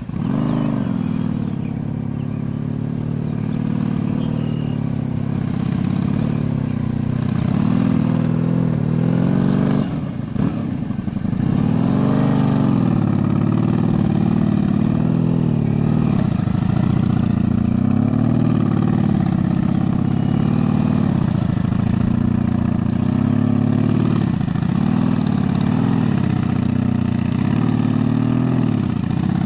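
Honda Magna V4 motorcycle engine at low speed, its pitch rising and falling about every two seconds as the throttle is opened and closed through tight cone turns.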